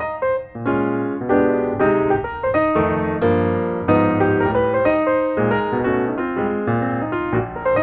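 Piano music: a melody of struck notes over repeated chords with a steady pulse.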